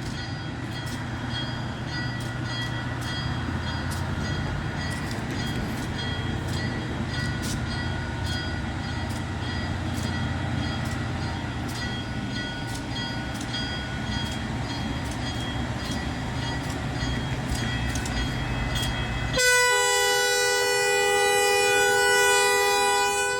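Diesel-hauled passenger train running steadily past a grade crossing: a low rumble with scattered clicks. About 19 seconds in, the locomotive's multi-note air horn sounds loudly and holds for about four seconds.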